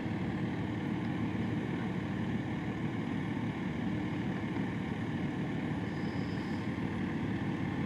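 Claw truck's engine running steadily while its boom works.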